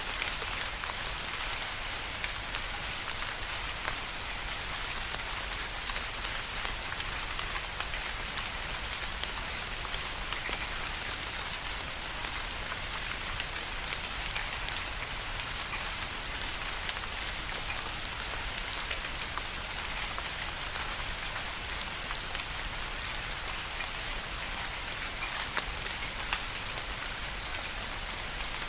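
Steady rain falling on a surface: an even hiss with many small scattered drop ticks, unchanging throughout.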